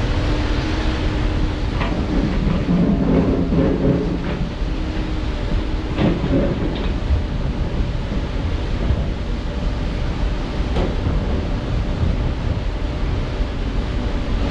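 Heavy diesel construction machinery running steadily, with a louder, rougher stretch a few seconds in and a few sharp knocks and clanks along the way.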